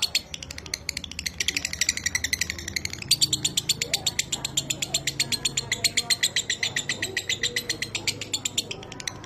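Lovebird's 'ngekek' song: a long run of fast, evenly repeated high chattering notes, broken briefly about three seconds in, then carrying on.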